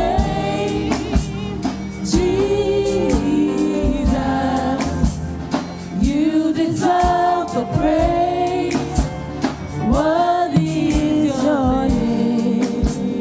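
Gospel praise team singing a worship song in several voices over live band accompaniment with drums.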